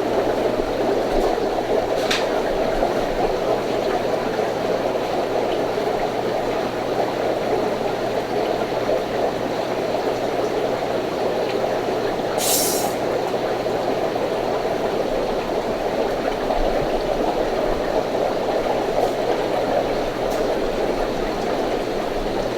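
Steady rush of circulating water and pump hum from aquarium tank filtration, with a brief hiss about twelve seconds in.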